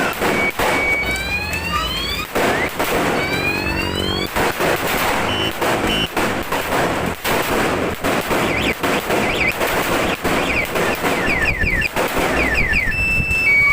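Firecracker string (Judas belt) going off in a rapid, irregular run of sharp cracks. Rising electronic whooping tones repeat through it near the start and again near the end.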